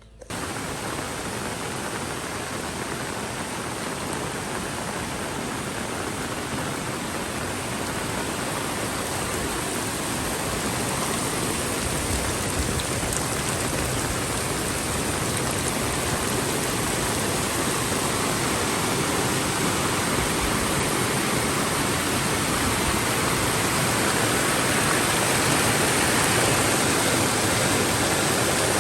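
Heavy rain falling, a steady hiss that starts suddenly and grows gradually louder.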